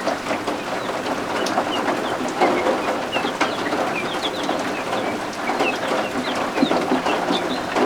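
Baby guinea fowl keets peeping: many short, high chirps, several a second, over a steady hiss of rain.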